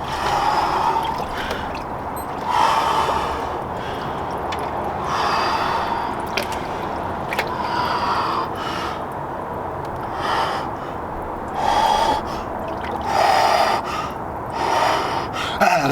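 A person breathing hard and forcefully through the cold shock of an ice-bath plunge, with about eight heavy breaths spaced a couple of seconds apart.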